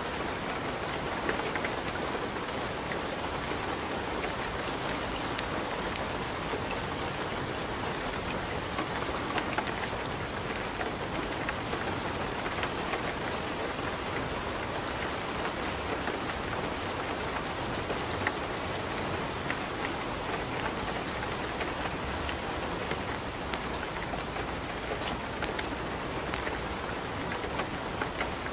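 Wood fire in a fireplace crackling: a steady hiss with frequent small sharp pops.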